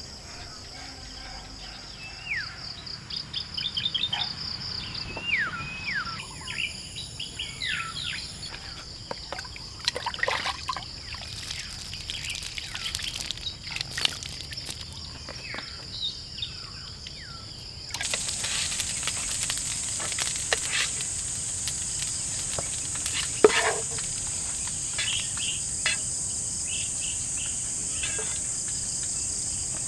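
A steady, high-pitched chorus of insects with birds calling over it, including several quick falling chirps in the first third. Partway through, a louder, higher insect drone starts suddenly, and a single sharp knock comes a few seconds later.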